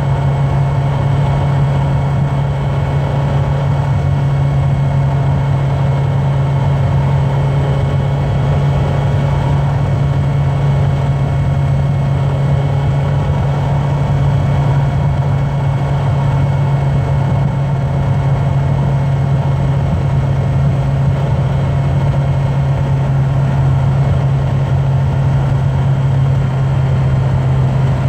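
A car running at a steady motorway cruise, its engine and tyres making a constant low drone that does not rise or fall.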